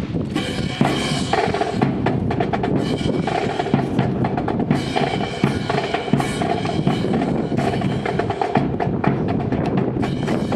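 Rifle drill percussion: about thirty-six rifles struck and slapped in unison by a drill team, making a fast rhythmic run of sharp clacks and taps with a metallic ring.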